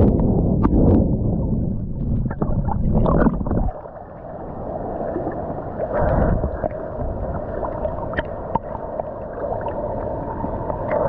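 Sea water sloshing and gurgling around a swimmer's camera, with scattered slaps. About four seconds in the sound drops suddenly and turns muffled.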